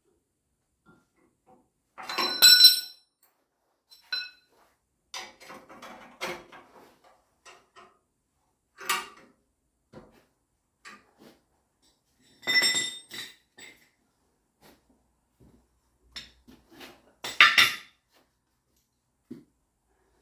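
Steel tools and parts being handled and set down on metal: a series of sharp clanks and clinks, some ringing briefly, with the loudest about two seconds in, past the middle and near the end, and lighter rattling between.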